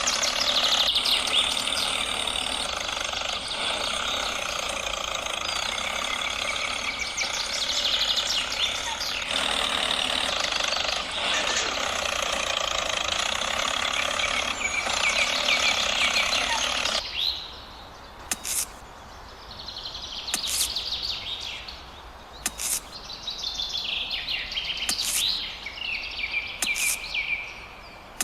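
Birds chirping over a dense steady noise that cuts off abruptly about two-thirds of the way through, leaving the birdsong alone with a few sharp clicks.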